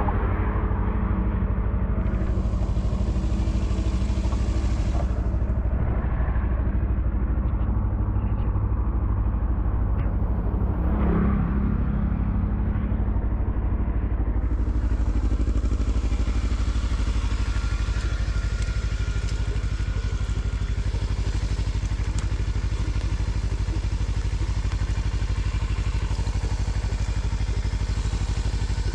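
Steady low rumble of a vehicle travelling on a road in rain. A hiss of rain or wet-tyre spray comes in for a few seconds near the start and again from about halfway on.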